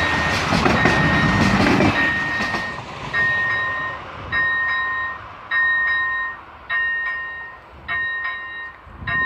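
Electronic bell of a level-crossing warning light (ZV-01) ringing a short repeated tone a little under once a second, while the rumble of a passing train fades out over the first two seconds or so. From then on the bell's tones stand alone.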